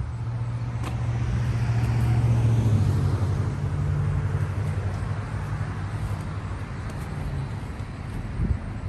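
Engine running steadily with a low hum that swells for a few seconds and shifts down in pitch about three seconds in. A single short knock comes near the end.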